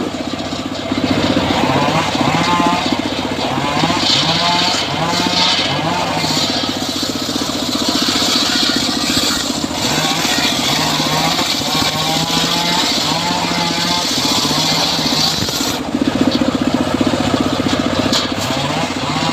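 Engine of a home-built circular sawmill running steadily, with a higher hiss of the blade cutting teak from about four seconds in until near the end.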